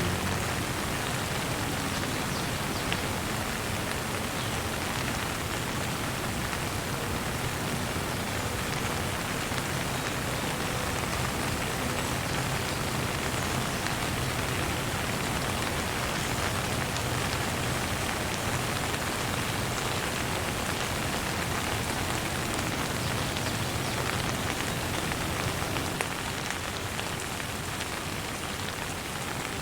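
Steady rain falling on surfaces, an even hiss that does not let up.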